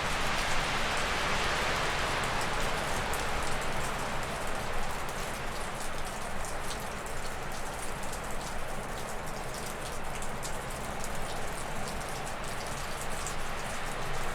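Gusty wind rushing through spruce and birch trees, a gust strongest in the first few seconds and then easing. Meltwater dripping off a roof adds scattered sharp ticks throughout.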